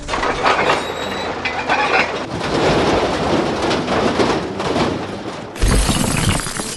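Cartoon sound effect of a heavy vehicle running: a dense, noisy rumble. A louder, deeper rumble cuts in suddenly near the end.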